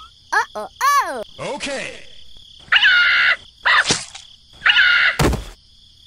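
Cartoon sound effects for stop-motion figures: a run of short squeaky, pitch-sliding chirps and gibberish voice sounds, with one heavy thud about five seconds in. Underneath is a steady high insect-like chirring.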